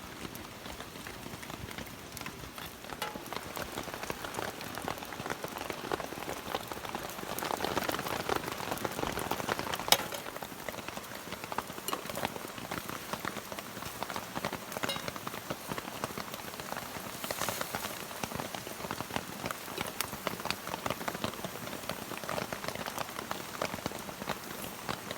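Rain pattering steadily, a little heavier for a few seconds in the middle, with one sharp click about ten seconds in.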